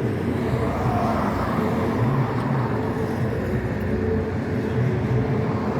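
A motor vehicle running steadily: a constant engine hum with road noise and no distinct events.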